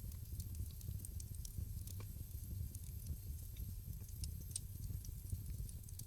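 Wood fire burning in a fireplace: a low steady rumble of flame with scattered small crackles and pops, one sharper crack about two seconds in.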